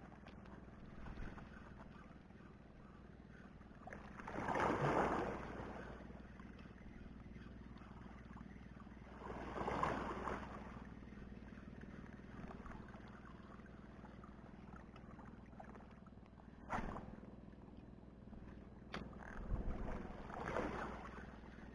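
Small waves washing in at the water's edge: three swells of water noise several seconds apart, the first two about five seconds apart. Two short sharp clicks come in the later part.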